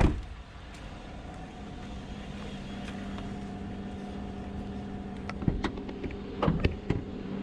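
Stock 5.3-litre V8 of a Chevrolet Silverado idling steadily and quietly on its stock exhaust, heard from the engine bay. A sharp thump opens the sound and a few short knocks come in the second half.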